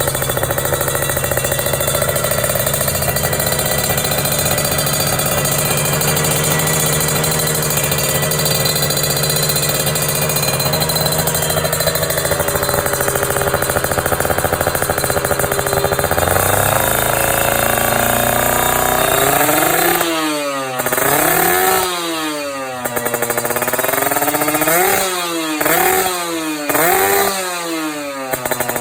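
Kawasaki Ninja R 150's two-stroke single-cylinder engine through a Creampie aftermarket exhaust, idling steadily, then climbing in revs and, in the last third, blipped up and down in a series of quick revs.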